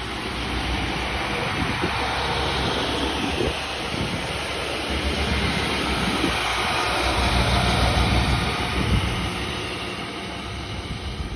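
Arriva Lint-41 diesel railcar passing close by, its engine running and wheels rolling on the rails; the sound builds to its loudest about eight seconds in, then fades as it draws away.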